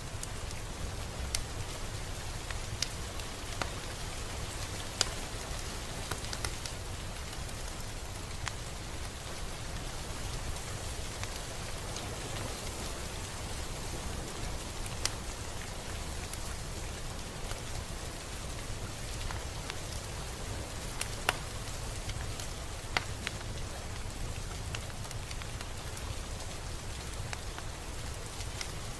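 Steady rain falling, an even hiss with scattered sharp drip ticks of individual drops landing.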